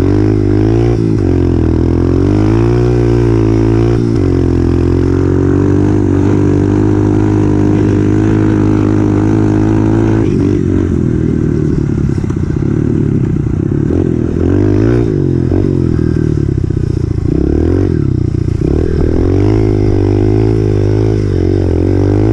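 Honda CRF125F's single-cylinder four-stroke engine running under way, its pitch rising and falling as the throttle is opened and closed. The pitch holds steady for several seconds in the middle.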